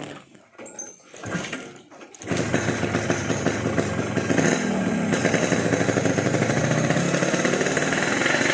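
Yamaha RX-King's two-stroke single-cylinder engine with a gutted 'bobokan' open exhaust, starting suddenly about two seconds in and then running loud with a fast, even beat, its speed sagging slightly and picking up again.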